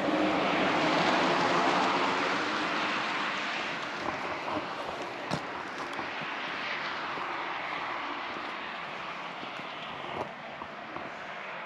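Pickup truck driving on a road: steady engine, tyre and wind rush, louder in the first few seconds and then easing off, with a few light knocks.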